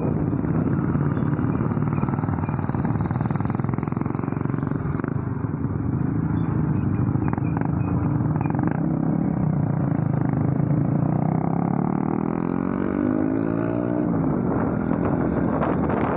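Motorcycle engine running while riding, its pitch climbing steadily as it accelerates for about three seconds near the end, then dropping suddenly.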